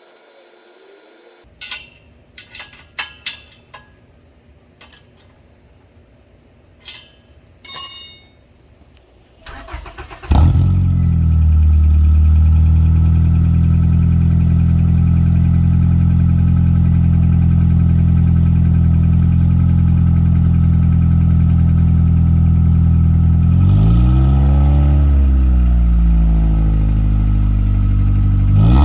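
1998 Honda Accord engine breathing through a new DNA catback exhaust with its silencer removed: after a few light clicks and knocks, it cranks and starts about ten seconds in, then idles steadily and loudly, with one brief rev a few seconds before the end.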